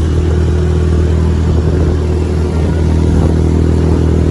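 An engine running at a steady, unchanging speed with a low, even hum.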